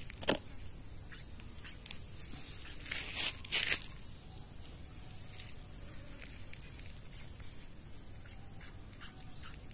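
Crackling, rustling handling noise while munia nestlings are hand-fed. There are a few sharp crackles in the first four seconds, the loudest cluster about three seconds in, and then only faint rustles.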